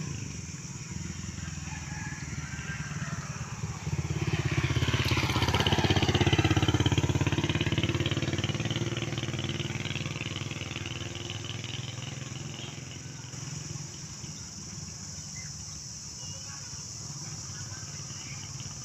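A motor vehicle, plausibly a motorcycle, passes close by. It grows loud suddenly about four seconds in, peaks a couple of seconds later, then fades away with its engine pitch falling. Under it runs a steady low engine drone.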